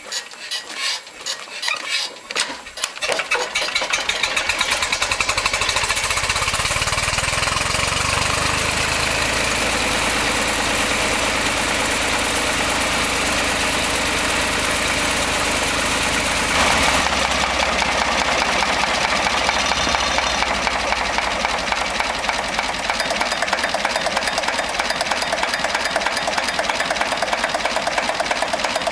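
Lister JP3 three-cylinder diesel starting: uneven strokes as it turns over for about three seconds, then it catches and runs steadily. About 17 seconds in its sound shifts, and it settles into an even running beat.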